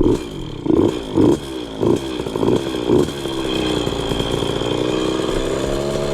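KTM 50 two-stroke dirt bike engine started with the throttle held open: it fires in uneven surges about twice a second, then catches and runs steadily, its pitch creeping up. The carburettor's air screw is set at 2.5 turns out, and the engine settles at a fairly high idle.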